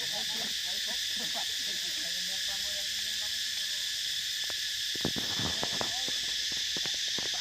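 Steady high-pitched buzzing of an insect chorus, with faint wavering calls in the first few seconds and a quick cluster of clicks about five seconds in.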